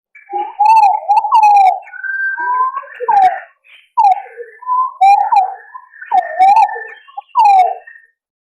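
Green pigeons calling: a run of mellow, wavering, fluty whistles that rise and fall in pitch, given in several phrases. They stop about eight seconds in. This is a recorded lure call of the kind used to draw flocks of green pigeons.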